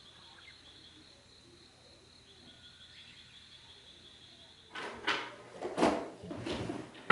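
Faint, steady high chirring of insects, then about five seconds in a run of four or five loud scraping strokes, the last one the loudest.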